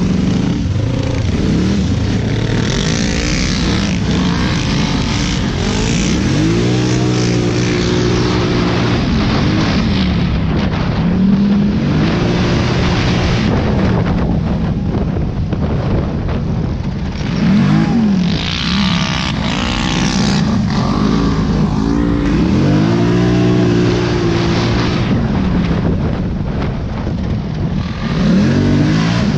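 Dirt bike engine riding hard, revving up and easing off again and again, its pitch climbing and dropping every few seconds.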